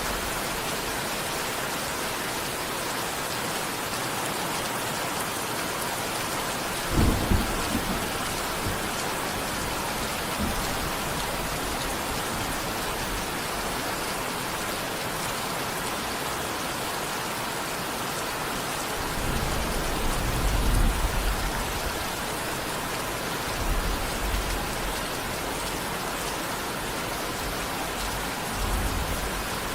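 Steady heavy rainfall with low rumbles of thunder: a short sharp one about 7 s in, a longer rolling rumble around 19–22 s, and smaller ones near 24 s and near the end.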